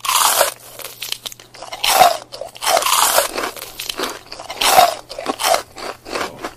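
Close-up eating of an adobo chicken foot held in both hands: loud biting and chewing in uneven bursts, about one a second.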